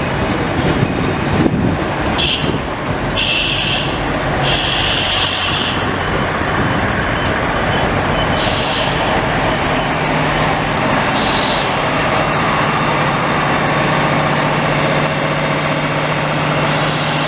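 Korail DMZ Train, a diesel railcar set, pulling into the platform and slowing to a stop with a steady rumble. Short high-pitched brake noises come several times. From about halfway through, a steady low engine hum sets in as it comes to rest.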